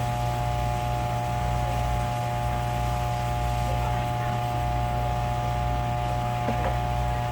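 Steady machine hum with a low throb that swells and fades every second or two, and a few faint ticks over it.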